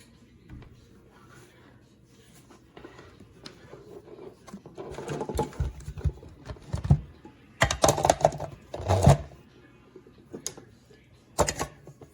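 A small electric food chopper's motor running in several short bursts, with knocks and rattles from the plastic bowl and lid in between.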